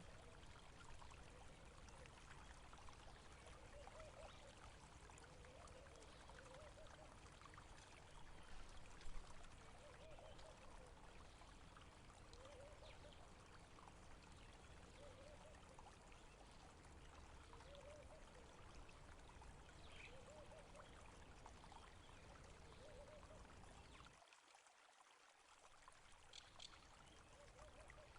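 Faint, steady flow of water from a small stream or trickle, with a brief drop in the low rumble near the end.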